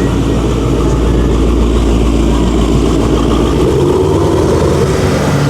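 Dodge Charger's 392 Hemi V8 running at low speed as it pulls out, a loud, deep exhaust rumble whose lowest drone drops away about three and a half seconds in.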